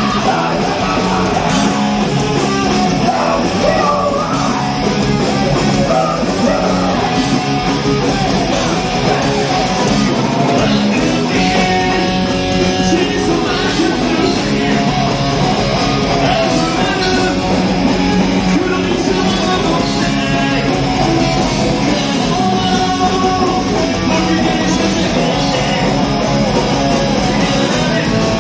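Punk rock band playing live: distorted electric guitars, bass and drums, with singing and shouted vocals.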